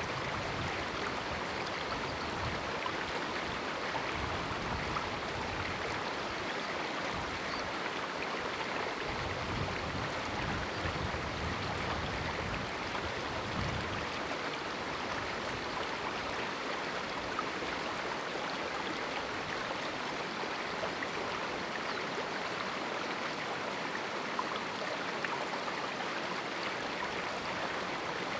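Small canyon river flowing steadily over rocks, a continuous rush and babble of water.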